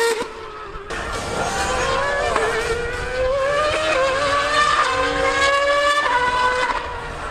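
High-revving racing engines of a Formula 1 car and a Yamaha R1M superbike accelerating hard. The pitch climbs and drops back at each upshift, several times in a row.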